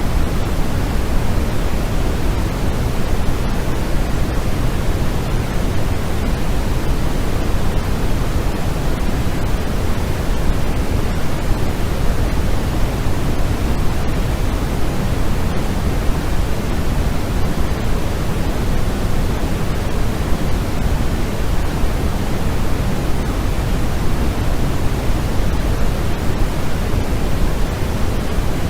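Continuous generated white-noise sleep sound: a steady, even hiss that never changes, fuller in the low end than in the treble.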